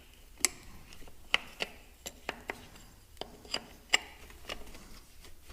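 Wrench clinking and tapping against tractor metal parts: about ten sharp, irregularly spaced clicks.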